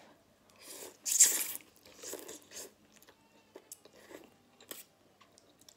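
Close-miked eating sounds: a loud bite about a second in, then several softer chewing sounds and a few small mouth clicks.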